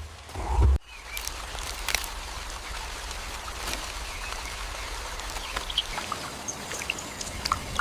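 Steady rain and running water with scattered drips, and a few short high chirps like birds. A deep low rumble cuts off suddenly within the first second.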